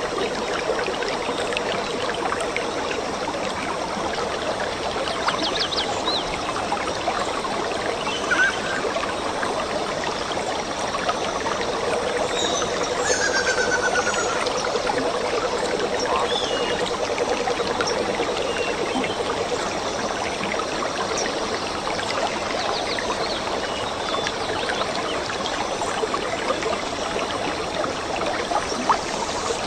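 Forest stream trickling and flowing steadily, with a few short bird chirps over it.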